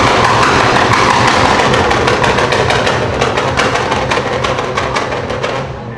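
Loud exhaust of a modified car running hard, with rapid popping and crackling, dying down near the end.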